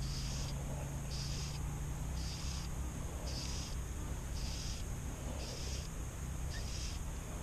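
A high-pitched chorus of calling creatures at dusk, pulsing evenly about once a second, over a steady low rumble.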